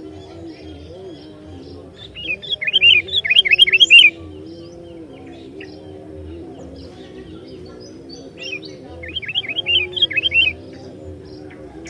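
Sooty-headed bulbul (kutilang) singing: two loud bursts of quick chirping notes, each lasting about two seconds, the first about two seconds in and the second near the end.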